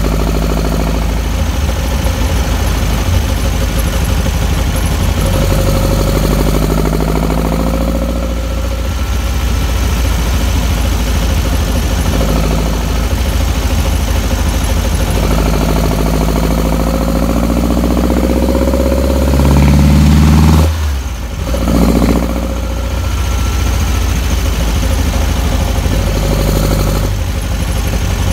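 Air-cooled 2007cc flat-four of a VW Beetle 1303S on Weber 48 IDA carburettors, heard right beside the carburettor intakes while driving. The revs repeatedly climb and fall back as the car pulls through the gears; the loudest, longest climb cuts off sharply about two-thirds of the way through, followed by a brief rev.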